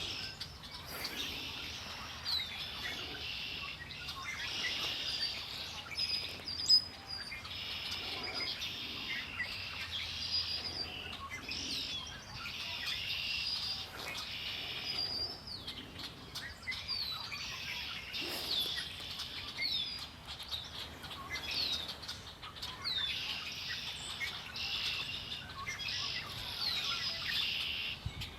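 Several songbirds singing and chirping at once in a continuous overlapping chorus of short high calls and trills. There is a single sharp click about seven seconds in.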